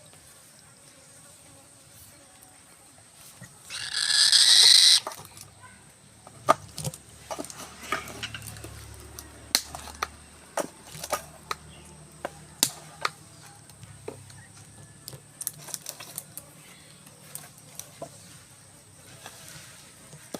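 A falcon's wings flapping in a loud burst of about a second, about four seconds in, followed by scattered light clicks and taps.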